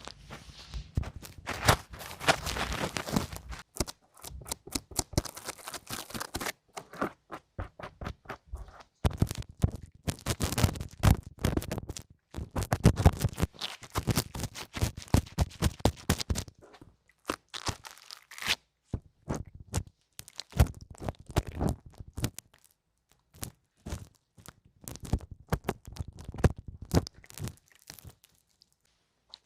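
Close-miked ASMR ear cleaning: crackling, scratching and clicking of ear-cleaning tools, in dense bursts with short pauses, the longest a little before the end.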